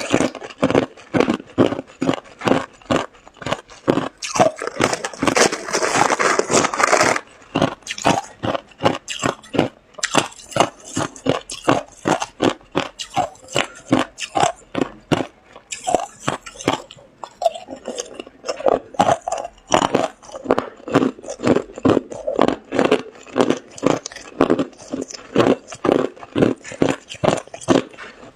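A person biting and chewing ice, a quick run of crisp crunches a few times a second, with a denser, louder spell of crunching a few seconds in.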